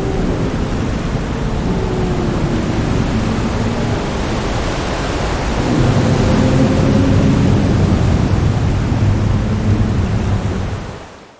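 Undersea ambience: a steady, deep rushing noise with faint low tones drifting through it. It fades out near the end.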